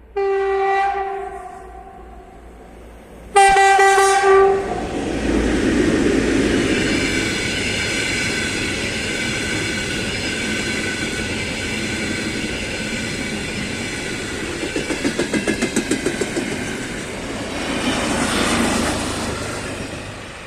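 Train horn sounding two blasts, one at the start and a second about three seconds later. The train then passes close by with a steady high whine and a rushing noise, with a quick run of wheel clatter over rail joints about three quarters of the way through, and the sound dies away near the end.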